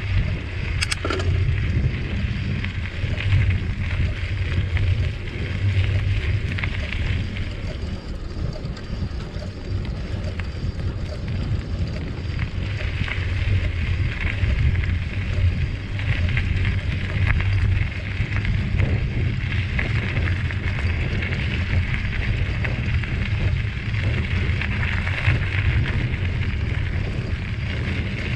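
Wind buffeting the microphone of a camera carried on a moving bicycle, a constant low rumble, with a hiss that drops away for a few seconds about a third of the way through and a single sharp click about a second in.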